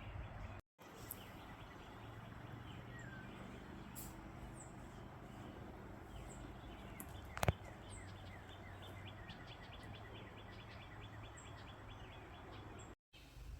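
Outdoor ambience with faint, short high bird chirps over a steady noise bed, and a fast run of regular ticking calls. One sharp click stands out about halfway through, and the sound drops out completely twice, briefly, near the start and near the end.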